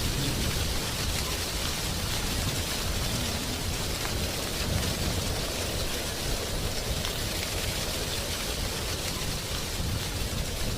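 Wind blowing through a tree, its leaves rustling in a steady, even hiss over a low rumble of wind.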